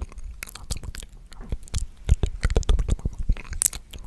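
Close-miked ASMR mouth sounds: a rapid, irregular stream of wet clicks and smacks from lips and tongue, mixed with bits of unintelligible whispering.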